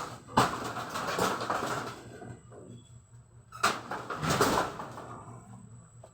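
Two sharp knocks, each followed by about a second of rustling or scraping, as of things being handled and set down.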